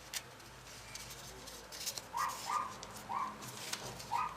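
Four short, high calls from an animal, a small dog or a bird, come in the second half. Under them are soft clicks and rustles of paper being handled.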